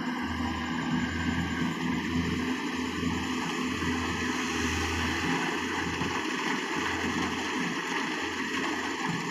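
Rice combine harvester engine and threshing machinery running steadily.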